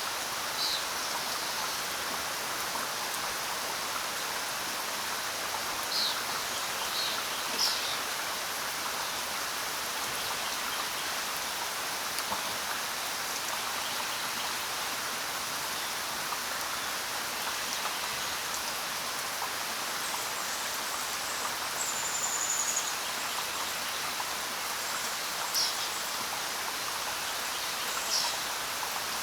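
Steady rain falling, with a few short bird chirps now and then: a cluster of chirps a quarter of the way in, a brief high whistle later on, and two more chirps near the end.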